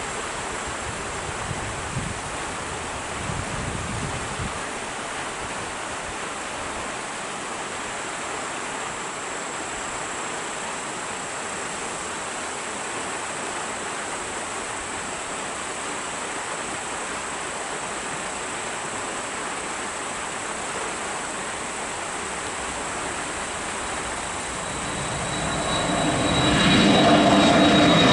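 Airliner engine noise: a steady distant rush with a thin high whine for most of the time, then near the end it swells sharply and loudly, with whining engine tones, as the aircraft draws closer.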